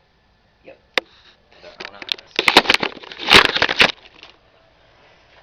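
A sharp click, then a quick run of crackling clicks and rustles that peaks about three seconds in and dies away before the end.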